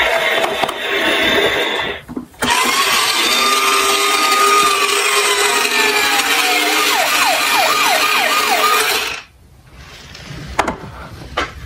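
Loud whirring, rushing noise with a siren faintly audible through it: a slow falling wail that switches to quick yelps. The noise breaks off briefly about two seconds in and stops suddenly near the end, leaving a few sharp clicks.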